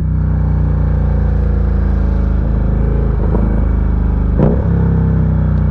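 Ducati Diavel 1260's V-twin engine running steadily in gear on a downhill descent, its note drifting slowly lower, with a short sharp sound about four and a half seconds in.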